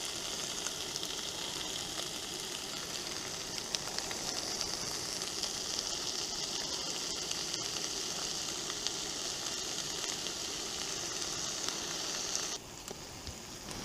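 Streaky bacon sizzling steadily in a frying pan, a constant fat crackle that drops away abruptly near the end.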